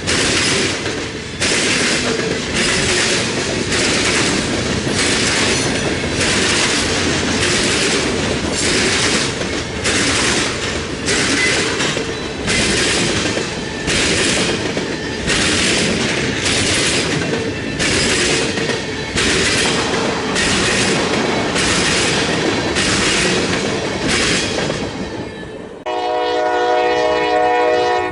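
CSX freight train rolling past close by, its wheels clattering over the rail in an even rhythm of about one beat a second as the cars go by. Near the end the clatter fades and a locomotive horn sounds one long multi-note chord.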